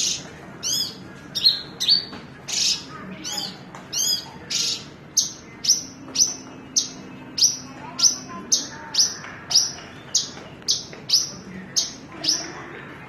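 Branjangan (Javan bush lark) singing loudly in a long phrase. It opens with varied arched, whistled notes, then settles into a steady run of repeated falling notes at about two a second.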